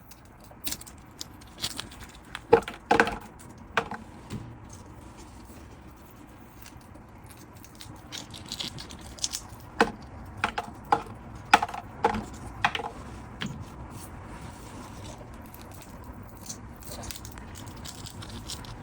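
Irregular sharp clicks and light knocks of kitchen prep work, a cluster about two to four seconds in and another from about eight to thirteen seconds in.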